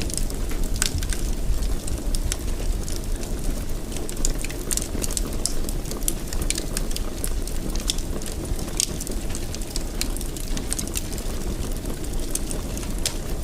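Fireplace fire burning with a steady low rush and frequent, irregular sharp crackles and pops.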